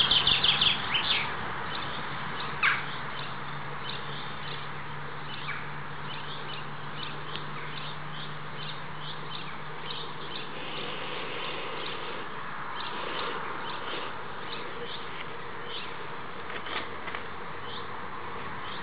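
Small birds chirping in short high calls that repeat all through, with a quick run of them at the start and one louder call about two and a half seconds in, over a steady low hum.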